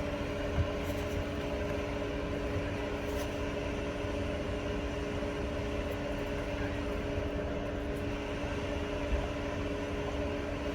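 Car idling: a steady low rumble with an even hum.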